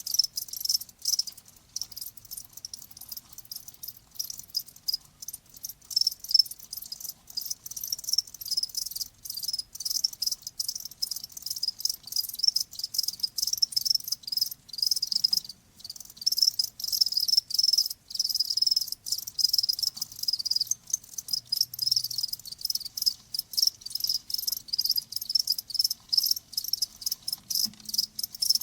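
Crickets chirping continuously, many rapid overlapping high-pitched chirps.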